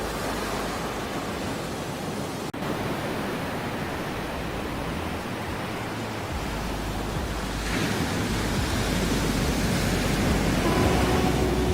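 Ocean surf: a continuous wash of waves that swells louder about eight seconds in. A split-second dropout cuts it about two and a half seconds in.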